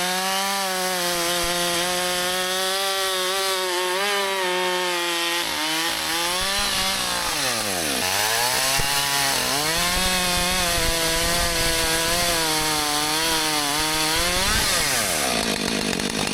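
Husqvarna 564 XP two-stroke chainsaw running at high revs while cutting firewood. Its pitch sags sharply and recovers as the chain loads in the wood, and it wavers through the cut. Near the end the engine tone falls away.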